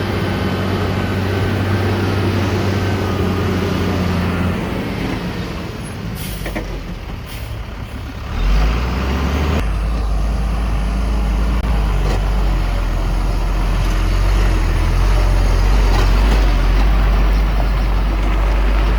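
Heavy diesel earthmoving machinery running, its engine note shifting a few times: it dips for a couple of seconds, then settles into a deep, steady, louder run from about halfway.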